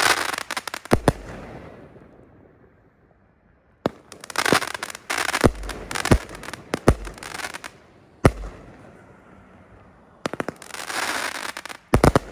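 Invicta Stinger fan cake firing: volleys of sharp reports as shots launch and burst, each followed by crackling. A cluster opens, a denser volley follows in the middle with a lone bang after it, and a spell of crackling ends in a few more reports near the end.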